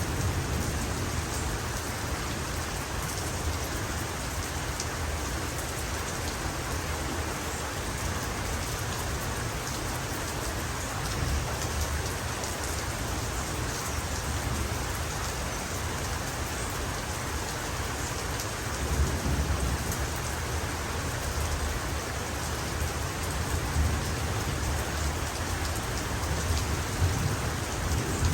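Heavy rain falling steadily, with low thunder rumbling beneath it that swells a few times in the last third.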